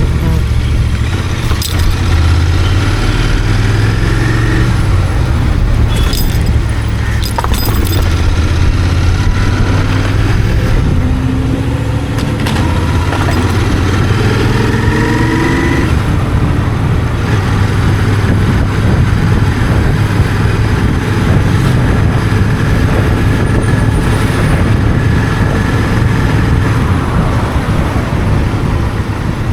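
Royal Enfield Continental GT 650's parallel-twin engine running through its stock exhaust while riding. The sound is steady and loud, and the engine note rises in pitch twice partway through.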